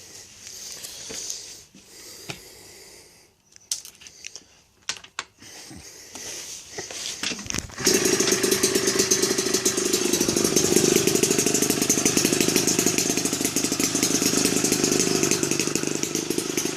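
A few clicks and knocks, then about eight seconds in the TZR 125 two-stroke engine, bored out to 134cc and running through an Arrow expansion exhaust, fires and runs steadily and loudly with a rapid buzzing beat.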